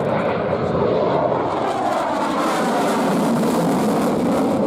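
Helicopter flying past at an air show: a steady, loud engine and rotor noise whose pitch drifts slightly downward partway through.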